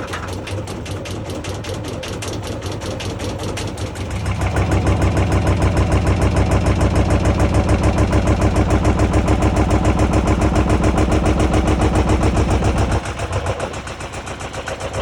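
Washing machine running, its drum turning with a fast, even rhythmic banging over a low hum. It grows louder about four seconds in and eases off again near the end.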